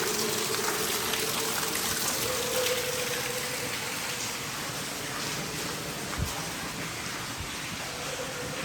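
Water trickling and dripping in a rock tunnel, heard as an even hiss, with one soft thump about six seconds in.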